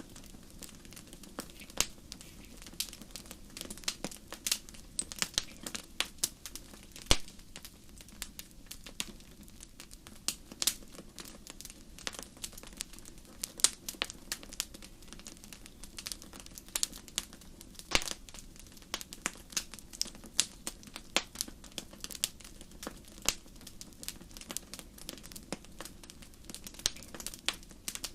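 Wood fire crackling steadily in a fireplace, with irregular sharp pops and snaps over a low hiss.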